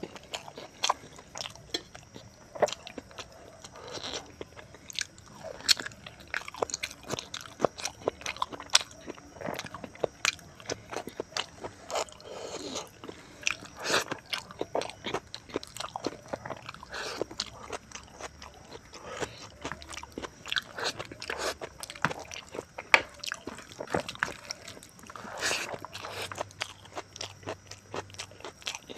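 Close-miked chewing and biting: a man eating rice with pork ribs curry and potato fry, with many sharp irregular clicks and smacks of the mouth throughout.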